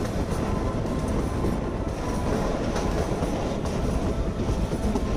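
Kalka–Shimla narrow-gauge toy train running steadily along the track, heard from an open carriage window.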